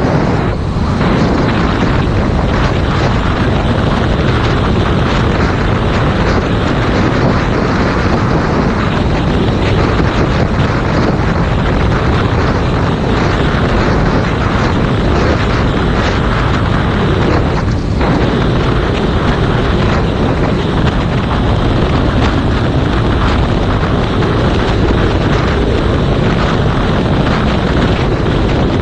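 Loud, steady wind noise on a GoPro Hero 5 Black's microphone while riding a 2019 Yamaha MT-07, with the motorcycle's engine running underneath.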